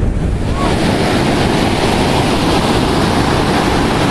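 Ocean surf washing up the beach, mixed with wind buffeting the microphone; a steady, loud noise without breaks.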